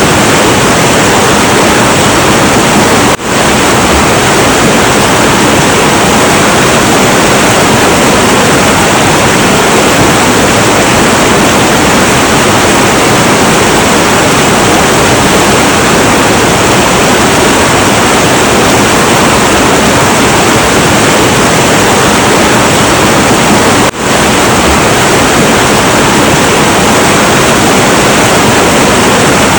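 Heavy, turbulent river water rushing in a steady, loud, unbroken roar. Two very brief dips in level break it, one about three seconds in and one past the three-quarter mark.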